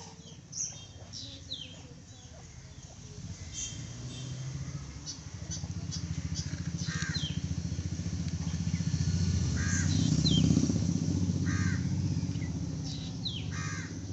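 Crows cawing several times over a low engine rumble that swells to its loudest about ten seconds in and then fades away.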